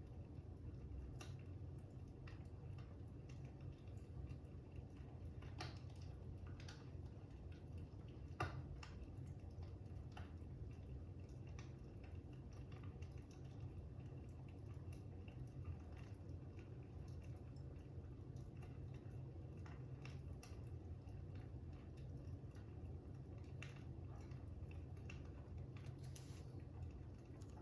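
Quiet fire crackling: a steady low rumble with scattered sharp pops, the loudest about eight seconds in.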